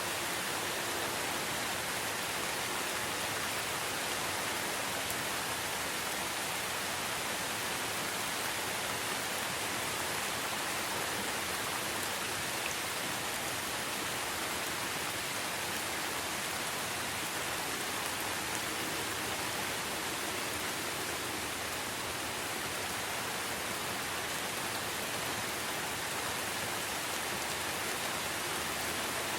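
Steady rain falling in a forest, an even hiss without thunder or separate drops standing out.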